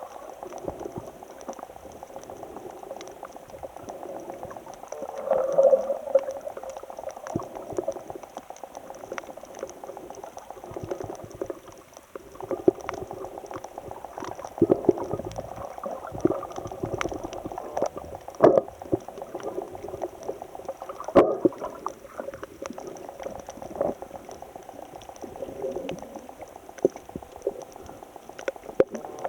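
Water bubbling and gurgling without a break, with scattered sharp clicks and a few louder pops.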